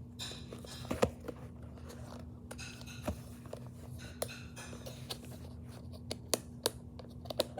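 Product packaging being opened by hand: scattered light clicks and taps, a few seconds apart, over a steady low hum.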